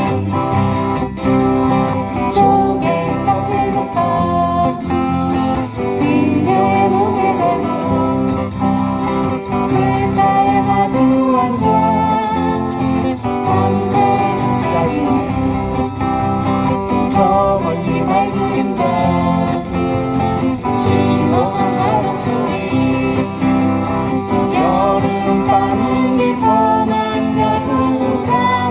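Acoustic guitars strumming with singing of a Korean folk song.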